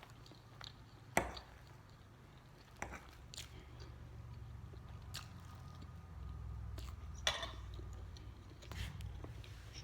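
Someone eating pancakes, chewing with a few short, scattered clicks over a low steady hum.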